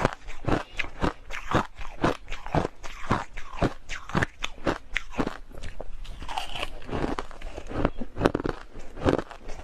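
Hard crushed ice being bitten and chewed: a steady run of sharp crunches, about three a second.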